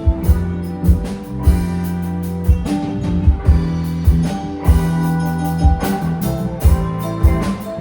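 Live rock band playing during a sound check: electric guitars and bass holding sustained chords over a drum kit, with keyboard.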